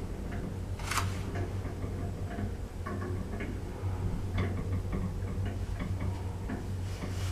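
Lift in operation: a steady low hum with light, irregular ticking and one sharper click about a second in.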